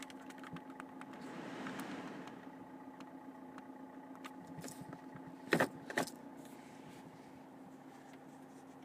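Clicks of buttons and controls being worked on a car's dashboard climate-control panel, with two louder sharp clicks a little over halfway through, over a steady low hum in the cabin.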